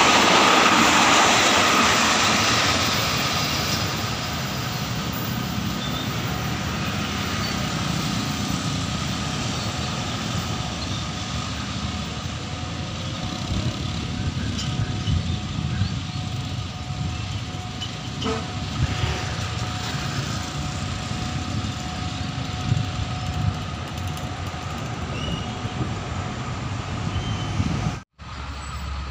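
Passenger train coaches rolling past on the track. The rolling noise is loudest in the first couple of seconds, then fades as the train moves away and leaves a steady low rumble.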